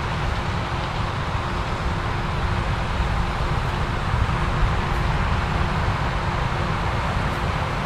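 Heavy farm machinery running steadily during the corn harvest: a continuous engine rumble with a steady hum over it.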